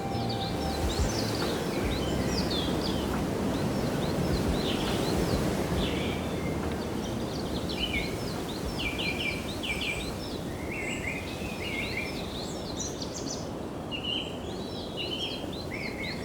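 Many birds chirping and calling in rapid short notes, busier in the second half, over a steady low rush of outdoor noise.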